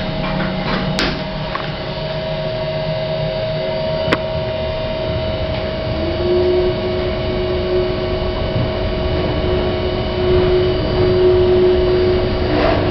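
ThyssenKrupp passenger lift in travel: a steady hum and whine from the car, with a second, lower whine joining about halfway through. Two sharp clicks come about 1 and 4 seconds in.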